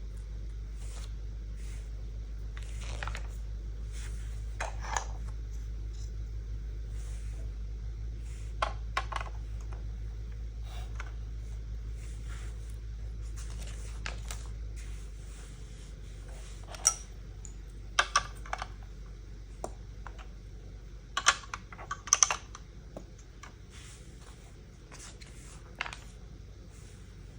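Plastic Lego pieces being handled, with irregular small clicks, taps and rattles and a few sharper clicks in the second half. A low steady hum runs underneath and drops in level about halfway through.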